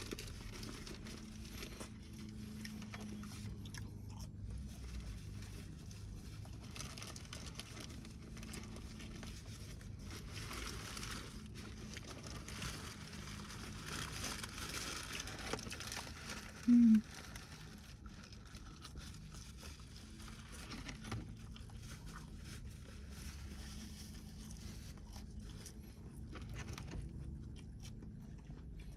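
A person chewing and biting food close to the microphone, with soft crunching throughout. About two thirds of the way in, a brief, loud, low tone stands out.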